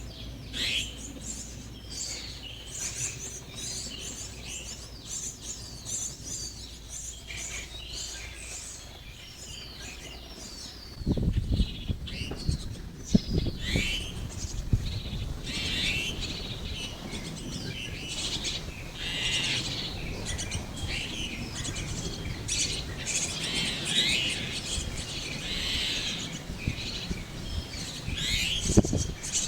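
Chestnut-tailed starlings chirping, a busy run of short, high, falling chirps. From about eleven seconds in a low rumble joins them.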